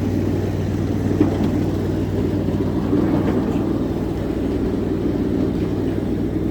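A 7.5-inch gauge ride-on miniature train running along the track: a steady rumble with a low hum underneath.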